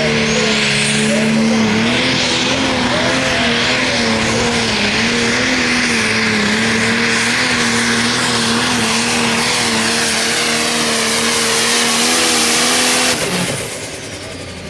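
A Light Pro Stock pulling tractor's turbocharged diesel engine runs flat out under load, its pitch wavering slightly. Near the end it cuts off abruptly as the throttle is released, and a high whistle falls away after it.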